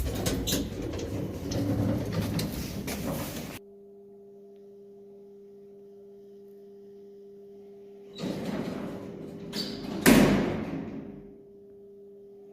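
Lift doors sliding and clattering, with a loud bang about ten seconds in. Between the door movements there is a steady electrical hum.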